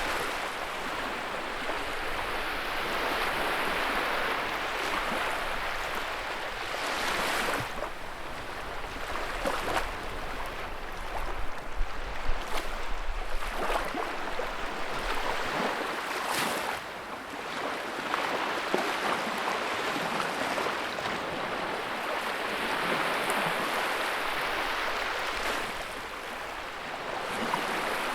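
Wood fire burning in a fireplace: a steady rushing hiss with frequent sharp crackles and pops, a run of louder pops about halfway through.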